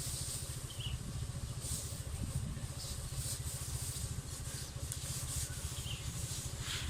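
A small engine running steadily with a low, pulsing drone, with brief rustling and handling noises over it a few times.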